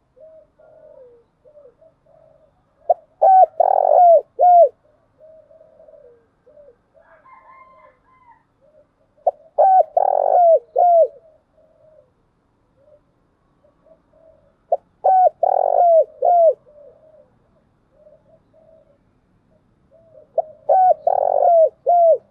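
Spotted dove cooing: four loud phrases about six seconds apart, each a quick run of short notes, with softer cooing in between.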